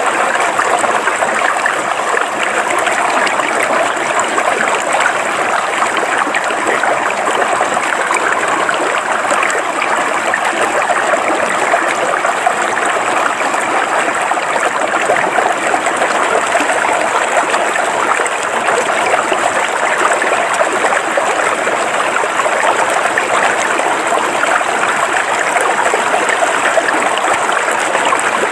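River water flowing steadily over rocks, a continuous even rush with no pauses.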